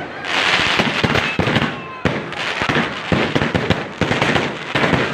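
Aerial fireworks going off in a rapid series. A new volley starts about once a second, each one a sharp bang followed by dense crackling.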